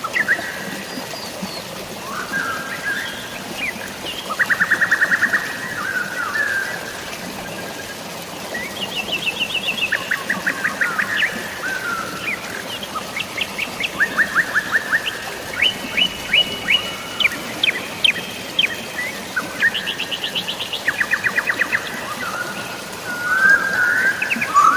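Songbirds singing one phrase after another, many of them fast trills of rapidly repeated notes, over a steady hiss of drizzling rain and flowing water.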